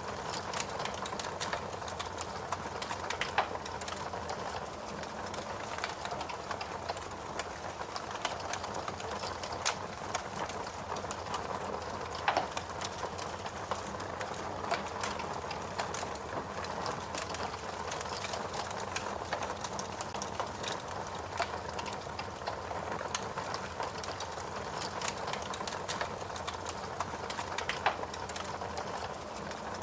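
Fire crackling steadily: a dense run of small snaps and pops over a soft hiss, with a few louder pops scattered through.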